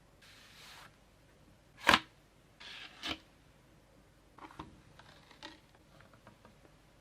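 Plastic packaging being handled and opened by hand: two short rustles, each followed by a sharp plastic click, the loudest about two seconds in, then a run of lighter ticks and taps.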